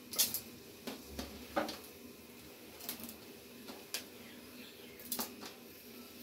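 Wet sliced bitter gourd rings being dropped and pushed around by hand in an empty aluminium karahi: scattered light taps and rustles against the metal pan.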